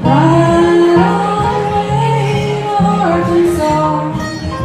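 Live country-folk band: a woman's voice sings long held notes, sliding up into the first one, over acoustic guitar and a bass line.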